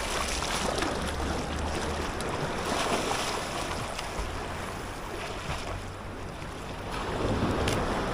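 Sea waves washing in, swelling about three seconds in and again near the end, with wind rumbling on the microphone.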